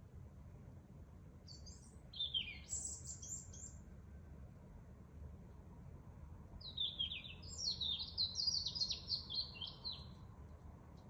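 A songbird singing at night: two phrases of rapid, varied high notes. A short phrase comes about a second and a half in, and a longer one starts past the middle. A steady low rumble runs underneath.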